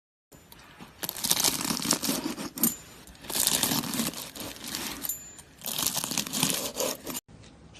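Slime being squeezed and worked, crackling and popping in three loud bursts of about a second each. Near the end the sound cuts to a quieter clip.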